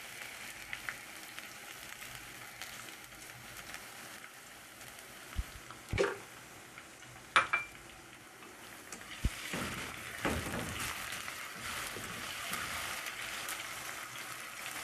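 Chopped onions and ginger-garlic paste sizzling gently in oil in a non-stick pan on low heat. A few sharp knocks of a utensil on the pan come around the middle. The sizzle grows louder over the last few seconds as the mixture is stirred.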